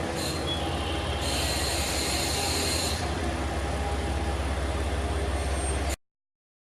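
KiHa 40-series diesel railcar running with a steady low rumble, joined by a high squeal of the wheels from about one to three seconds in. The sound cuts off abruptly near the end.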